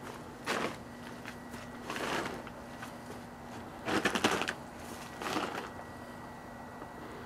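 Microwave oven running with a steady hum, with four short bursts of crackling from the soap, marshmallows and Peeps cooking inside, the loudest about four seconds in.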